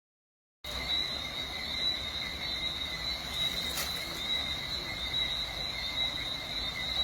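A steady, high insect trill, like crickets, over a low background rush. It starts suddenly about half a second in, with one faint click midway.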